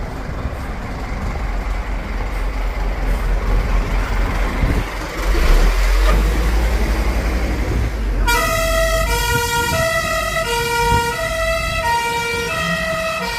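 A steady low rumble and noise, then about eight seconds in an emergency-vehicle siren starts, switching back and forth between a high and a low tone.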